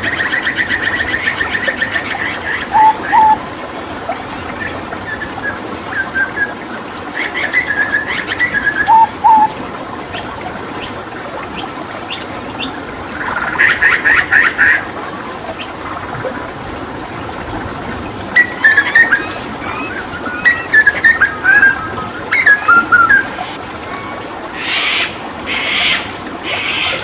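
Hooded butcherbird calling in a varied string of short whistled notes, chattering trills and a fast rattling burst about halfway through, over a steady background of running water.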